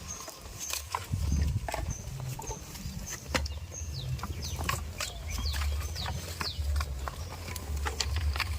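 Farmyard ambience: many short, high-pitched bird chirps, some sweeping downward, with scattered clicks over a low, steady rumble.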